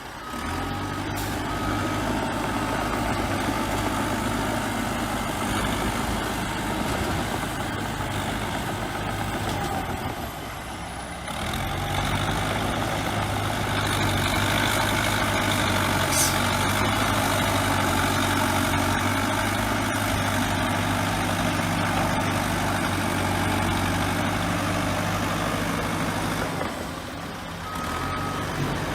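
Crawler bulldozer's diesel engine running steadily while working. A reversing alarm beeps a few times about a second in and again near the end.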